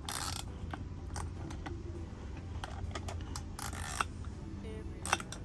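Hand tools and bolts clicking, clinking and scraping as a bolt is tightened to fix a seawater strainer to its backing plate, over a steady low hum.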